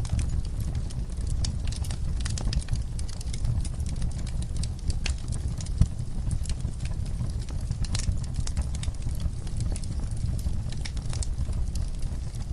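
Wood fire in a fireplace crackling, with irregular sharp pops over a low steady rumble of the flames and one louder pop about six seconds in.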